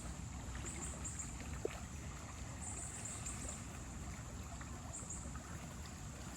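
Steady rush of creek water around a log jam, with a faint high trill coming and going in short spells.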